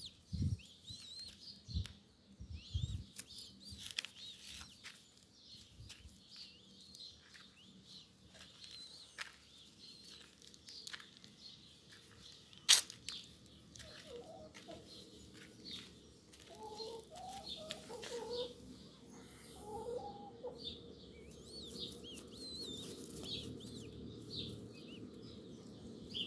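Birds calling: short high chirps throughout, with a run of lower calls from about 14 to 21 seconds in. A few low thumps in the first three seconds and one sharp knock about 13 seconds in.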